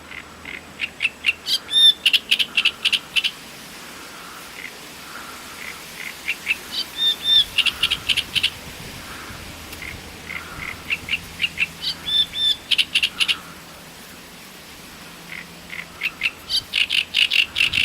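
Great reed warbler singing: four phrases of fast, repeated harsh notes, each a few seconds long, with short pauses between them.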